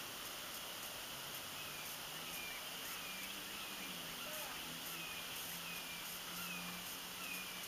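A bird calling with a short falling note repeated roughly every two-thirds of a second, over a steady outdoor hiss and a faint low drone.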